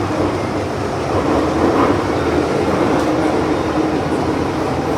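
Inside a Hong Kong MTR Island Line M-train car running underground: steady wheel-on-rail running noise with a traction-motor hum.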